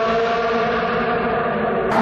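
Sports car engine running at high revs in a tunnel, a steady, nearly level engine note with strong overtones. A brighter engine sound cuts in abruptly right at the end.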